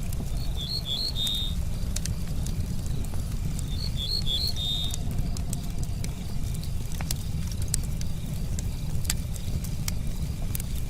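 Campfire crackling: scattered sharp pops of burning wood over a steady low rumble. A short burst of high chirping notes comes about a second in and again about four seconds in.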